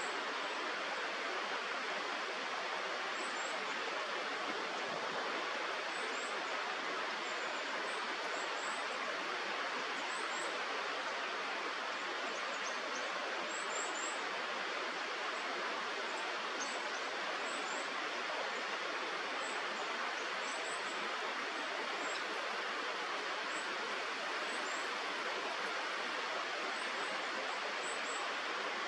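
Steady rushing of a river, with faint, very high, short bird chirps scattered through it.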